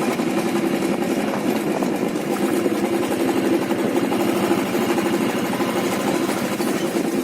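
Motorcycle engine running steadily, a dense rapid pulsing with no change in speed.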